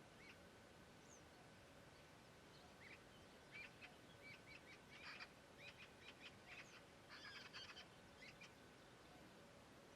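Birds chirping faintly: a flurry of short, high calls in the middle, over a steady hiss of meadow ambience.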